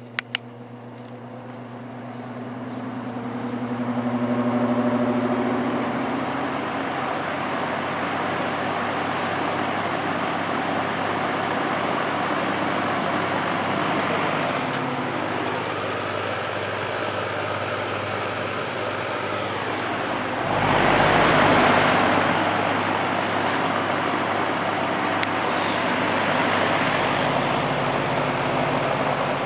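General Electric F15W13 box fan switched on with a couple of clicks and spinning up on high in reverse, its motor hum and blade tone rising over the first five seconds. It then runs steadily with a strong rush of air, with a brief louder surge about two-thirds through.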